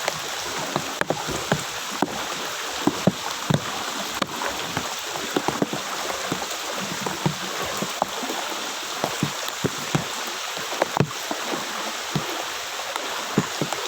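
Floodwater about 30–40 cm deep sloshing and splashing as someone wades through it, with irregular sharp splashes over a steady rush of water.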